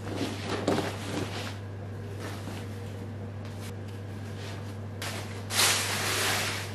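Household handling noises: short scrapes and knocks near the start, then a louder burst of noise lasting about a second about five and a half seconds in. A steady low hum runs underneath.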